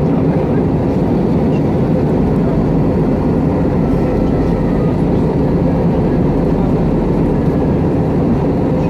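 Airbus A321 cabin noise in flight: a steady, loud roar of the engines and rushing air heard from inside the cabin, with a faint steady hum over it.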